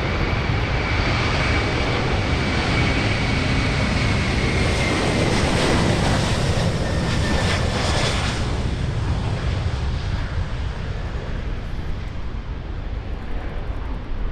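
Jet airliner passing close by, its engines making a loud rushing noise with a high whine that slowly drops in pitch as it goes past. The noise eases off in the last few seconds.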